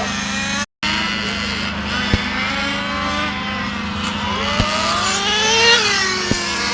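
Several radio-controlled racing motorcycles running together, their motors whining with pitch that rises and falls as they accelerate and slow around the track, over a steady low hum. The sound drops out briefly less than a second in, and a few sharp clicks come through.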